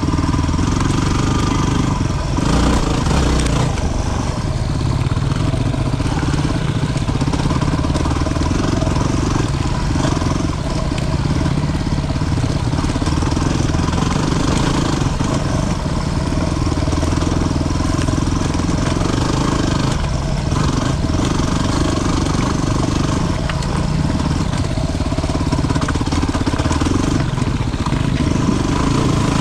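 250cc single-cylinder dual-sport motorcycle engine running under way on a trail, fairly steady with a few brief dips as the throttle eases.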